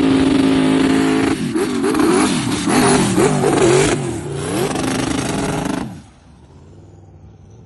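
A 4x4 SUV engine at high revs in soft dune sand. It holds a steady note, then is revved up and down rapidly from about a second and a half in. About six seconds in the engine sound cuts off abruptly, leaving a faint low background.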